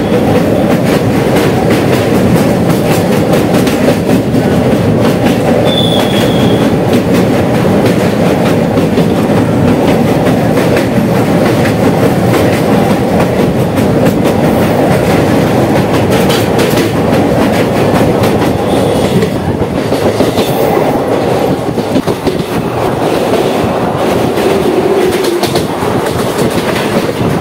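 Passenger train running at speed over a steel truss bridge, heard through an open coach window: a loud, steady rumble of wheels on rails with rapid clicks throughout.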